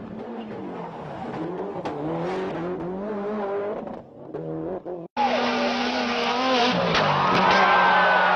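Rally car engines revving up and down through gear changes. About five seconds in, the sound cuts off for a moment and a louder car takes over, running hard.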